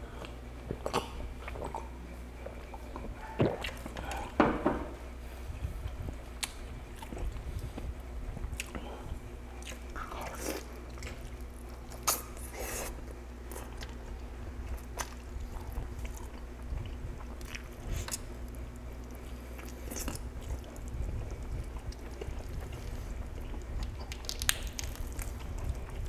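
Close-up eating sounds: a man chewing and biting into roast chicken, with wet mouth clicks and smacks scattered throughout and a few louder knocks a few seconds in, over a steady low hum.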